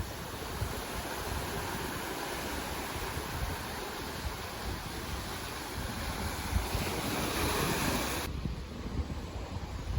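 Sea waves washing in, with wind buffeting the microphone. About eight seconds in, the high hiss cuts off abruptly, leaving mostly a low rumble.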